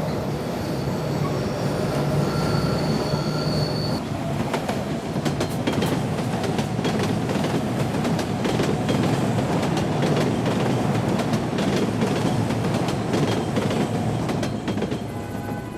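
A train running on rails: a steady heavy rumble. A thin high squeal comes about two seconds in, then dense rapid clicking of wheels over the track.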